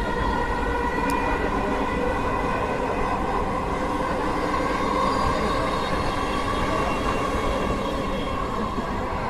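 Dhaka Metro Rail MRT Line 6 electric train running between stations, heard from inside the carriage: a steady rumble of wheels on track with a high whine held over it.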